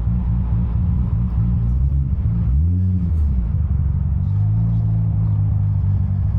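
Big-turbo Toyota Supra MK4's 2JZ-GTE straight-six running while driving, a low drone heard from inside the car. About two and a half seconds in the pitch briefly rises and falls, then the engine settles into a steady note.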